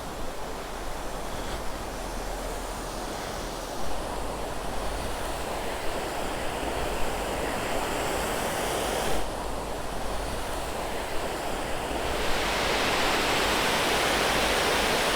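Steady rushing of small waterfalls and streams pouring over rocks, growing louder and brighter about twelve seconds in.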